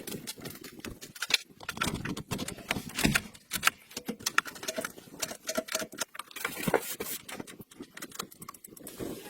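A rapid, irregular series of sharp clicks and knocks, like hard objects being handled or tapped.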